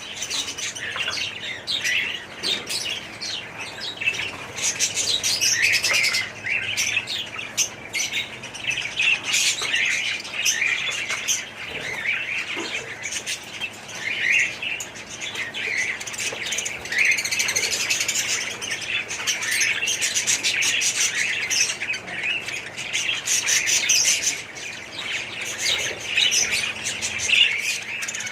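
A colony of budgerigars chirping and chattering, many birds at once in a dense, unbroken chatter.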